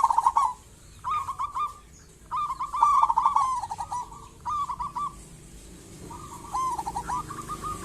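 Zebra dove (perkutut) cooing: five phrases of quick staccato cooing notes, all at about the same pitch and separated by short pauses. Near the end the notes run on faster and more evenly.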